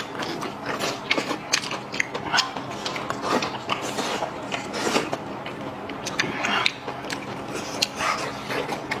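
Chewing and biting crunchy food: dense, irregular crunching and clicking from mouths eating.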